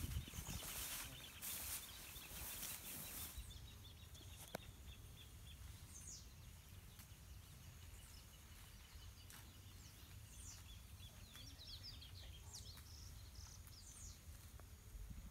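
Faint rural ambience: small birds chirping now and then in short, high calls. Rustling in grass fills the first three seconds, and there is a single sharp click about four and a half seconds in.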